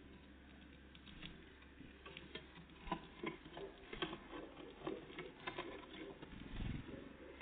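Small birds at a feeder pecking and scuffling: a run of light, irregular taps and scratches, with a duller thump about six and a half seconds in.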